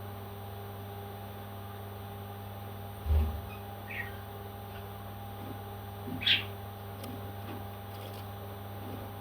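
A pet parrot gives two short high chirps, the second louder, over a steady electrical hum. A dull low thump comes about three seconds in.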